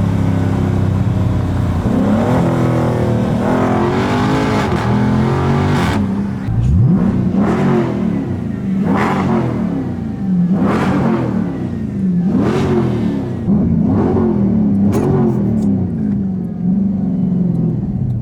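Dodge Scat Pack's 392 HEMI V8, very loud, idling and then revved over and over in quick blips. The pitch climbs and drops back about every one and a half to two seconds.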